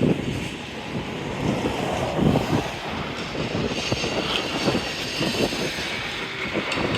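Freight train cars rolling past, a continuous uneven clatter and rumble of wheels and car bodies.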